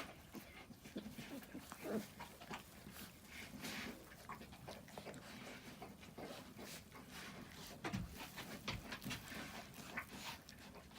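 Three-week-old Central Asian Shepherd (Alabai) puppies making small noises, many short soft sounds scattered throughout, a little louder about two seconds in and again about eight seconds in.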